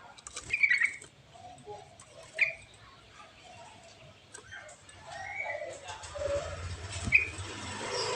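A songbird giving short, sharp chirps, three of them spaced a few seconds apart, against a faint background hiss.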